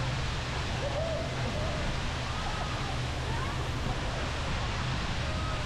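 Steady low drone of a tour boat's engine under a constant rush of wind and water, with faint distant voices of other passengers.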